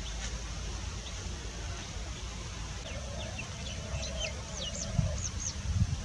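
Wild birds chirping: a scatter of short, high chirps starting about halfway in, over a steady low background rumble.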